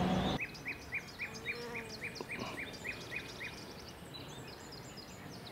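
Birds singing: one repeats a short falling note about four times a second for about three seconds, over scattered higher chirps from others.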